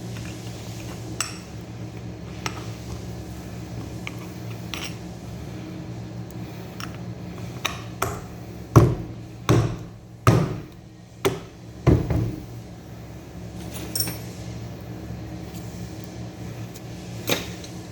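Hand tools and metal starter-motor parts clicking and knocking together, with a run of five louder knocks about halfway through. A steady low hum runs underneath.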